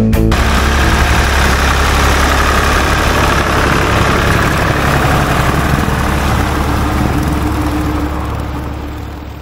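An engine running steadily, a constant low hum under a broad rushing noise, fading out over the last two seconds.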